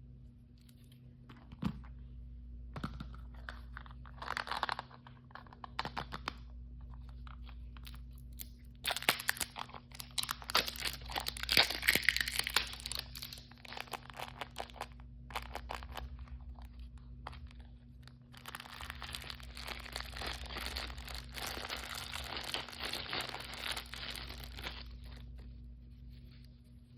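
Toy blind-bag packaging torn open and crinkled by hand. Scattered clicks and short crinkles give way to two long stretches of tearing and crackling, the louder one about ten seconds in.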